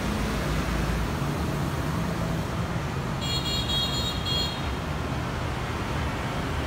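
Steady low rumble of road traffic, with a short run of high, even-pitched beeps about three seconds in.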